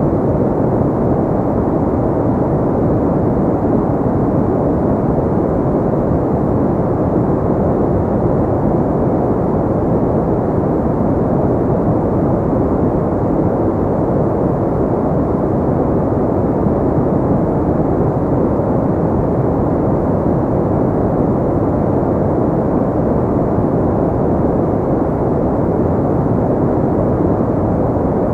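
Steady synthetic white noise shaped low and deep, with almost no high hiss. It is unchanging throughout.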